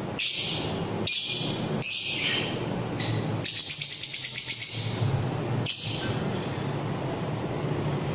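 Pet parrots from a mixed aviary of ringnecks, cockatiels, lovebirds and budgies calling: several loud, shrill calls in the first three seconds, a rapid rattling chatter in the middle, and one more short call about six seconds in. A steady low hum runs underneath.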